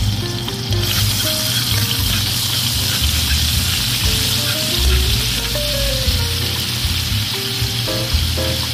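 Minced garlic sizzling in hot oil in a frying pan, the sizzle growing louder about a second in and then running on steadily.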